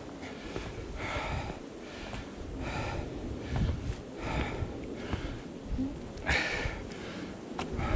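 A person breathing hard while climbing, with a loud, noisy breath roughly once a second over a low rumble.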